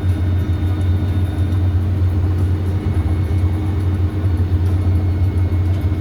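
Claas Lexion 8900 TT combine harvester running steadily while harvesting wheat: a constant low drone with faint steady whines above it.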